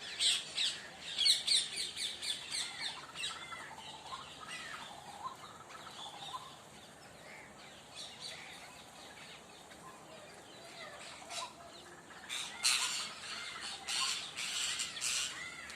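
Parrot squawking and chirping in quick runs of high-pitched calls, loudest in the first few seconds and again near the end, with softer scattered calls in between.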